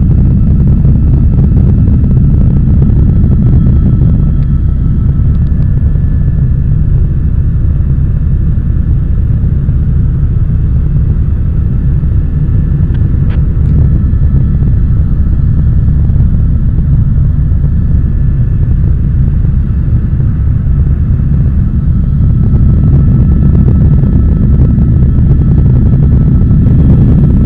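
Helicopter in steady cruise heard from inside the cabin: a loud, constant low rotor and engine rumble with a faint steady whine above it.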